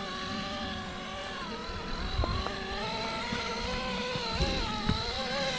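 RC rock crawler's electric motor and gearbox whining, the pitch rising and falling with the throttle as it climbs, with a few sharp knocks of the crawler against rock.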